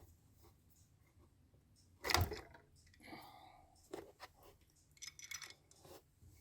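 Small metal hand tools and engine parts clicking and knocking during work on the engine front cover, with one sharp knock about two seconds in and a short squeaky scrape about a second later.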